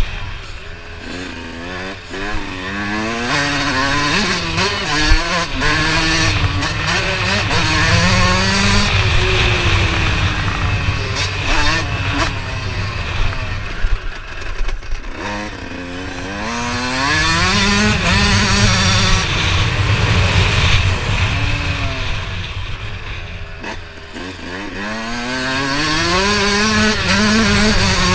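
Motocross bike engine being ridden around a track, its pitch climbing and dropping over and over as it is revved up and backed off.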